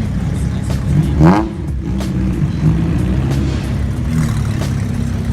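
A car engine revving once about a second in, its pitch rising sharply and dropping back, over the steady low running of engines.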